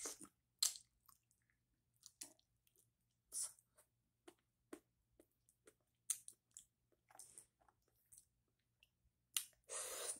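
A person chewing and biting a whole cooked octopus in chili sauce: irregular short wet smacks and squishes with pauses between them. Near the end comes a louder breathy sound.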